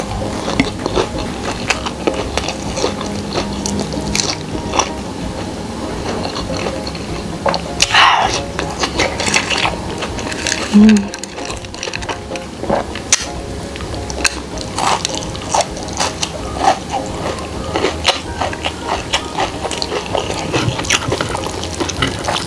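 Mouth sounds of eating crispy fried chicken (ayam kremes) and rice by hand: chewing, crunching and wet lip smacks, with many short clicks throughout. Louder moments come about eight and eleven seconds in.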